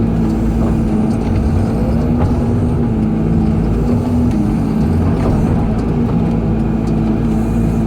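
Excavator's diesel engine running steadily at work, a loud drone whose pitch wavers slightly, with a few faint clicks.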